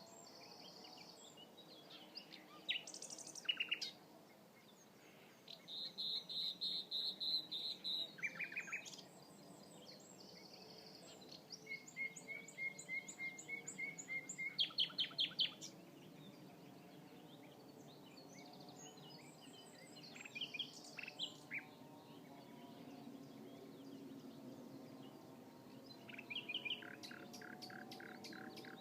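Common nightingale singing: separate phrases of fast repeated notes, trills and clear whistles every few seconds, with short pauses between them.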